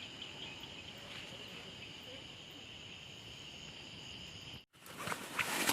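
Night insects chirring steadily in an even high-pitched band. Near the end the sound drops out for an instant and gives way to a few rustling, crunching noises.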